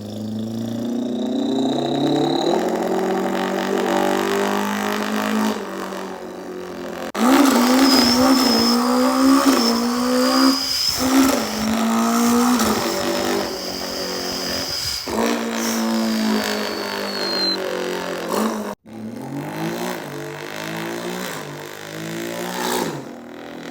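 A person imitating a car engine revving with their mouth, the pitch gliding up and down in repeated runs. A thin high whine runs over much of the middle, and the sound gets louder about a third of the way in.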